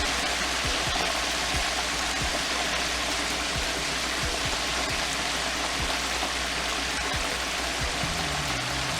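Beer-battered cod pieces deep-frying in hot oil, giving a steady, dense sizzle.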